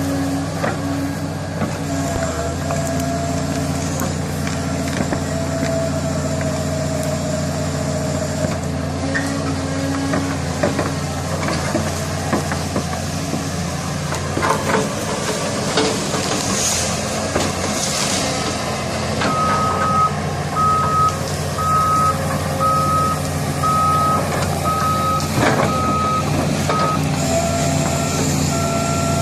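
Heavy machine's diesel engine running steadily under work, with scattered knocks and cracks. In the second half a backup alarm beeps about once a second, eight times, as the machine reverses.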